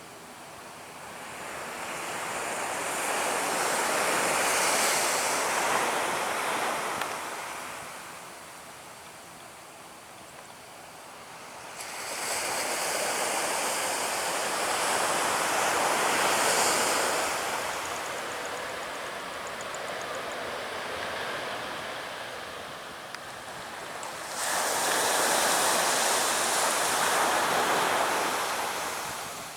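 Surf breaking on a beach: three surges of rushing wave noise, each building and washing away over several seconds, the second and third starting abruptly.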